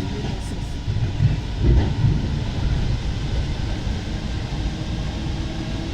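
Rubber-tyred Alstom MP 05 metro train running through the tunnel, heard from inside the car: a steady low rumble with a few louder knocks about a second in.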